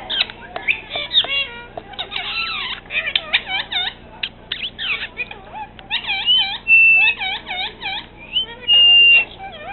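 Pet parrot chattering in quick, squeaky calls that swoop up and down in pitch, with two longer level whistles in the second half.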